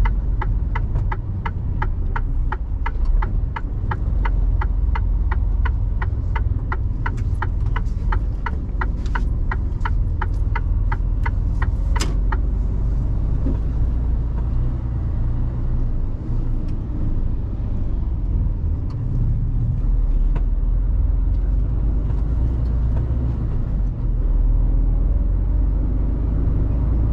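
Low, steady rumble of a Mercedes Actros truck's diesel engine and road noise inside the cab. A turn-signal indicator ticks evenly, about two to three times a second, for roughly the first twelve seconds and then stops.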